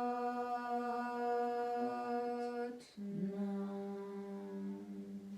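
A single voice chanting two long held notes in a meditative hum, the second one lower, with a quick breath between them about three seconds in.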